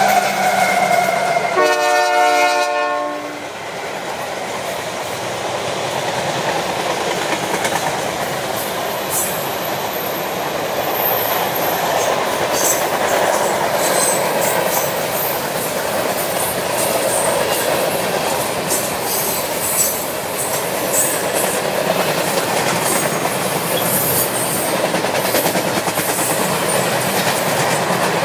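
Canadian Pacific diesel freight train passing close by. Its locomotive horn sounds once, briefly, about two seconds in, then the freight cars roll past with a steady rumble and scattered clicks from the wheels.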